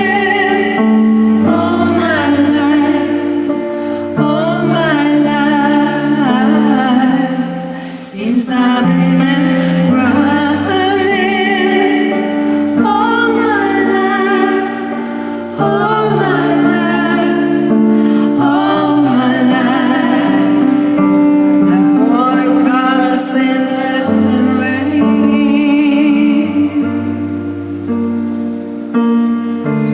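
Live pop band playing sustained chords while a woman sings long, wavering notes with vibrato over them.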